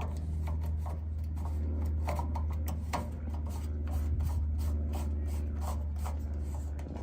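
Quick, irregular plastic clicks and rubbing, a few a second, from handling the battery compartment of a gas grill's electronic push-button igniter as it is closed over a new battery. A steady low hum runs underneath.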